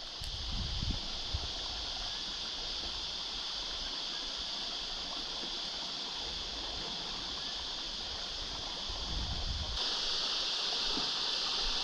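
Steady rush of a creek's rapids with an even, high hiss that grows a little louder about ten seconds in. Two brief low rumbles come near the start and just before the rise.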